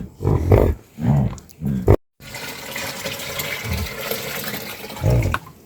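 Several short calls, most likely from an animal, then after a sudden cut a steady rush of water lasting about three seconds, with one more short call near the end.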